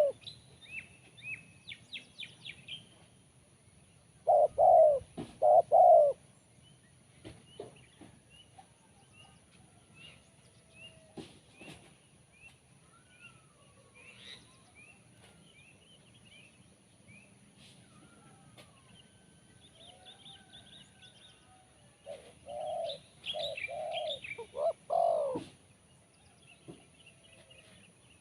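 Spotted dove (tekukur) cooing: a phrase of three low coos about four seconds in and a longer phrase of several coos near the end. Small birds chirp faintly in between.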